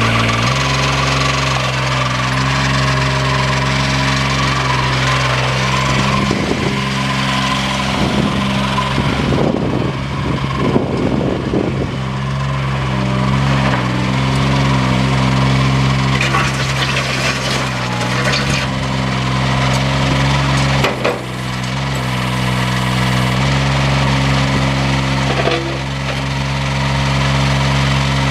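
Engine of a towable backhoe running steadily under hydraulic load, its note shifting as the controls are worked. Rough scraping and crunching of the bucket digging, heaviest between about six and twelve seconds in.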